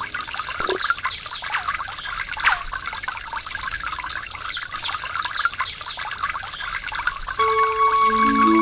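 Water flowing and splashing with a gurgling trickle, as at a small waterfall. Soft music with held notes comes in near the end.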